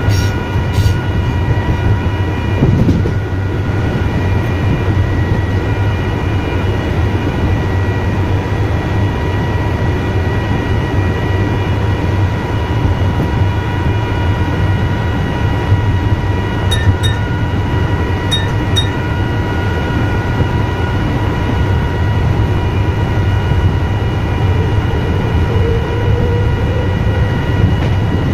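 Electric suburban train running steadily, heard from the driver's cab: a continuous low rumble with a constant high electrical whine over it. A couple of faint short clicks come about two-thirds of the way in.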